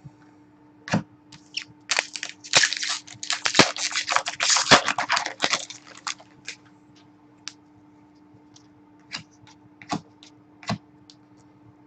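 Hockey trading cards being handled: a few seconds of dense crackly rustling and snapping as cards are slid and flicked through the hands, then scattered light clicks and taps. A faint steady hum runs underneath.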